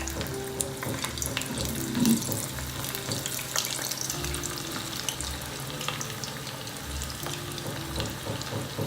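Hot oil sizzling and crackling as methi muthiya dumplings deep-fry, with one louder moment about two seconds in.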